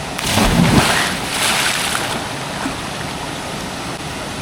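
A person plunging into a waterfall pool: a loud splash starting just after the start and dying away over about two seconds, over the steady rush of the waterfall.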